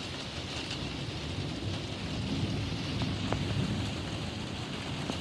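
Steady rain falling, with a low rumble of thunder swelling through the middle.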